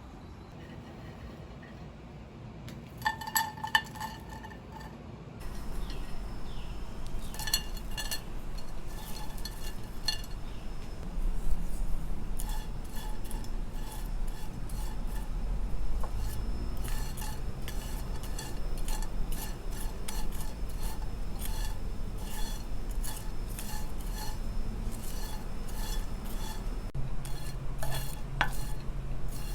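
A spatula stirring and scraping dried burdock root slices in a dry pan, a continuous clatter of light clinks and scrapes as the slices are dry-roasted for tea. The pan sounds start after a few quiet seconds with a couple of clinks, over a low steady hum.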